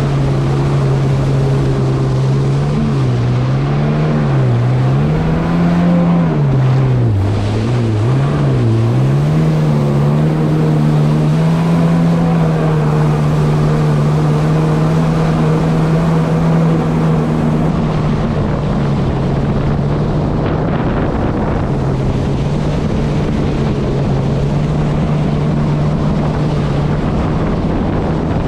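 1500cc engine of a Kawasaki SX-R 160 stand-up jet ski running at speed, its pitch dropping and climbing several times with the throttle in the first ten seconds, then holding steady. Wind on the microphone and water rushing along the hull.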